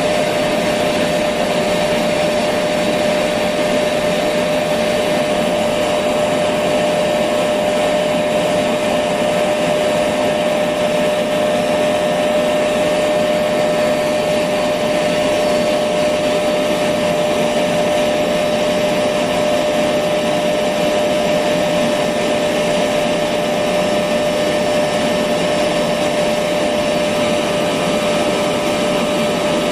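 Electric vacuum cleaner motor running steadily, a constant whooshing hum with a strong steady whine, used as white noise to soothe a baby to sleep.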